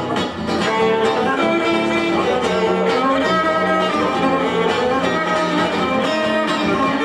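Guitar and violin playing an instrumental break together: the guitar keeps a steady strummed accompaniment while the violin carries a sustained melody.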